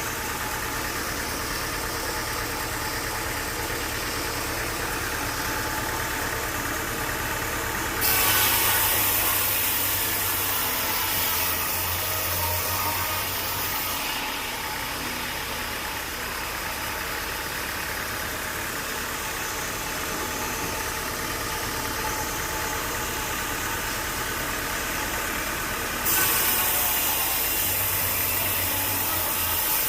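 Sawmill engine running steadily, with a louder hissing noise that comes in suddenly about eight seconds in and lasts about six seconds, then again near the end.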